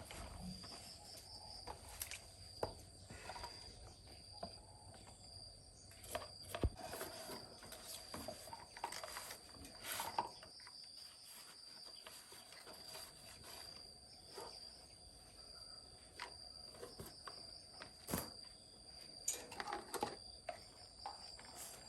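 Steady high insect drone, crickets or cicadas, with scattered light knocks and clicks over it.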